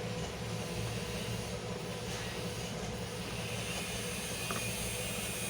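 Steady hum of a running fan motor with an even rush of air.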